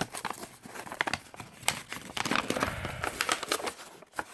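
Paper instruction sheets being unfolded and handled, with irregular crinkling and rustling.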